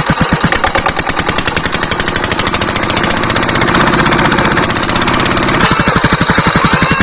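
Ruston 20 HP diesel oil engine running steadily, its exhaust giving a rapid, even train of beats.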